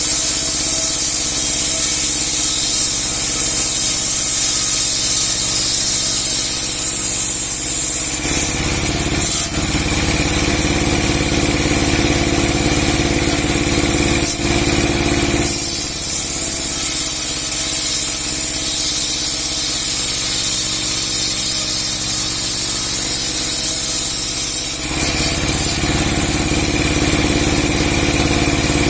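Large 30 hp sawmill running steadily, its 60 cm steel saw blade splitting a big log. The sound shifts between two steady states several times, about eight seconds in, about midway, and again near the end.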